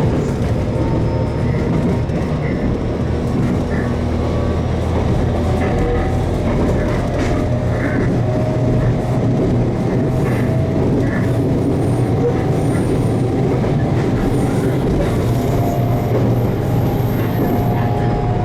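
JR Kyushu 813 series AC electric train running between stations, heard from inside the carriage: a steady rumble of wheels on rail, with a few faint steady tones above it.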